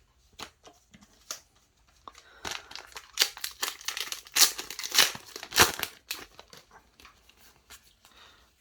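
Crinkling and rustling of a Yu-Gi-Oh Rush Duel booster pack wrapper being handled and torn open, with a few faint clicks first and the busiest crackling from about two to six seconds in.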